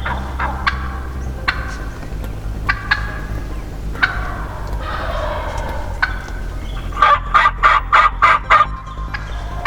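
Wild turkey calling: scattered single sharp notes, then a quick run of about eight loud notes near the end.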